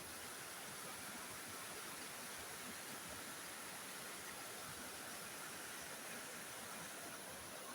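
Waterfall's falling water giving a steady, even rushing hiss.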